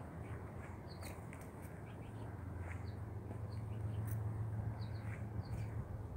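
Small birds chirping in short high notes, often in quick pairs, every second or so, over a steady low hum and a faint background hiss.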